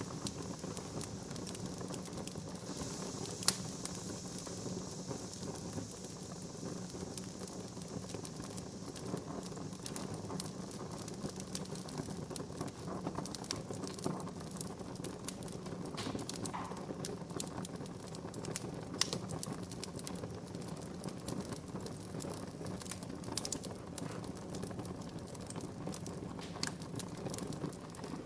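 Wood fire burning in a fireplace: a steady low rumble of flames with frequent small crackles and pops of burning wood, one sharp pop about three and a half seconds in.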